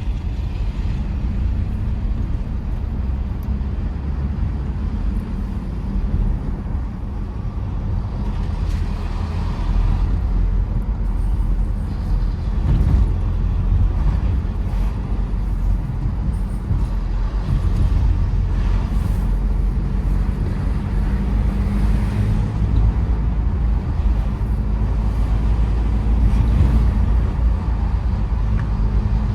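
Tata Safari Storme diesel SUV driving: a steady low rumble of engine and tyre noise, getting a little louder about a third of the way in.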